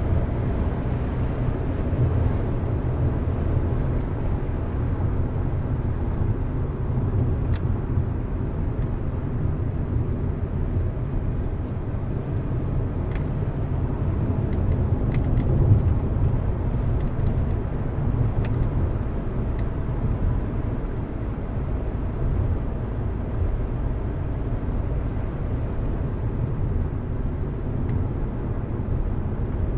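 Car driving on a mountain road: steady low engine and tyre rumble that swells slightly about halfway through, with a few faint ticks.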